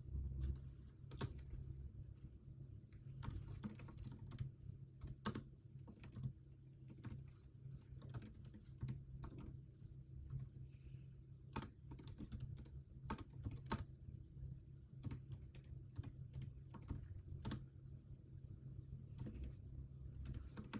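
Typing on a computer keyboard: irregular keystrokes in quick runs and short pauses, over a steady low hum.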